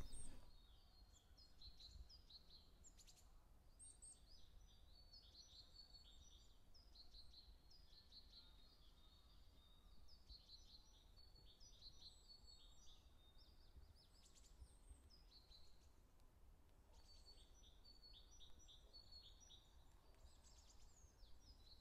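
Faint birdsong: small birds chirping and twittering in many quick high phrases, over faint steady low background noise.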